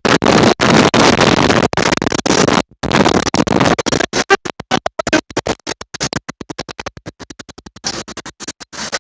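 Tornado wind buffeting a phone's microphone: a loud rushing noise that keeps cutting out, the dropouts coming rapid and choppy from about four seconds in.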